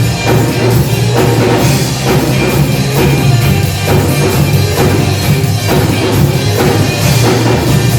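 A live rock band playing an instrumental passage between verses: drum kit keeping a steady beat over a sustained bass line and guitars, with no vocals.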